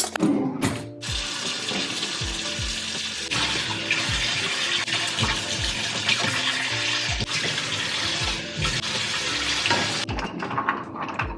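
Kitchen faucet running into the sink, starting about a second in and shutting off near the end, over background music with a steady beat. A few clinks of dishes at the start.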